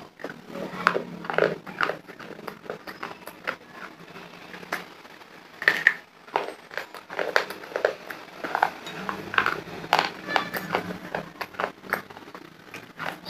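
Close-miked crunching and chewing of dry, brittle homemade clay: many irregular crisp cracks and crunches as the pieces break between the teeth, with a short lull partway through.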